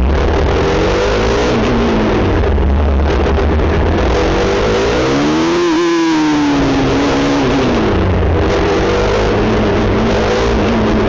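Motorcycle engine running under way, the revs climbing about halfway through and then dropping back.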